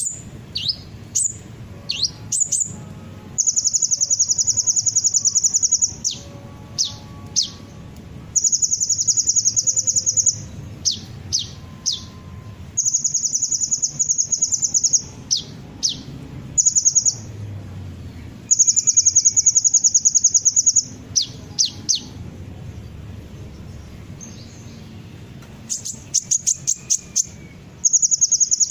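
Sunbird song (Indonesian 'kolibri'): high, rapid buzzing trills of two to three seconds, alternating with quick, sharp notes that sweep down in pitch, sometimes in runs of several.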